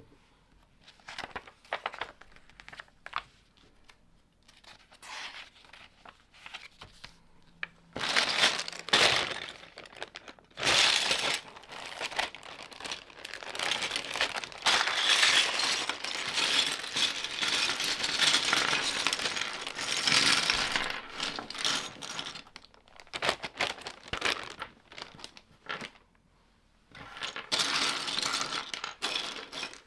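Lego plastic pieces being handled: scattered small clicks at first. From about eight seconds in comes a long stretch of continuous rattling and rustling of bricks and packaging, and another short burst of it near the end.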